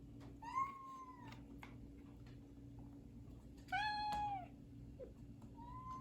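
Domestic cat meowing three times: a short meow about half a second in, a louder, longer one near the middle, and a third starting near the end. Faint clicks and a steady low hum sit underneath.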